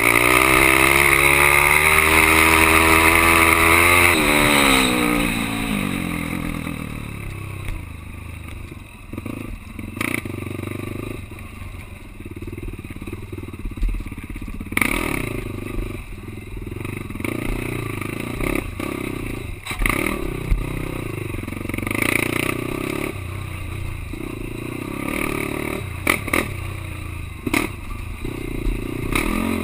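Quad ATV engine revving with the pitch climbing for the first few seconds, then dropping off about five seconds in to a lower, steadier running note. Sharp knocks and clatter come through at intervals over the rest.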